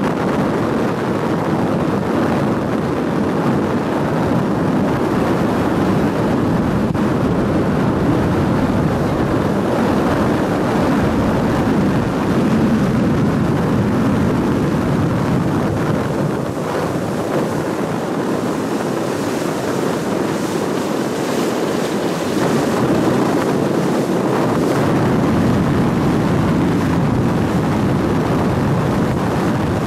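Steady wind rushing over the microphone on the deck of a moving cruise boat, mixed with the boat's running noise and water.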